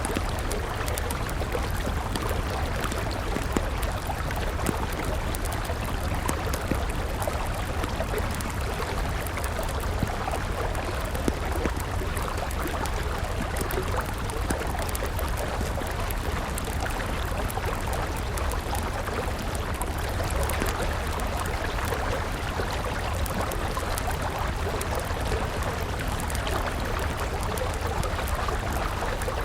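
River water flowing steadily, with a wood campfire crackling over it in many small, sharp pops.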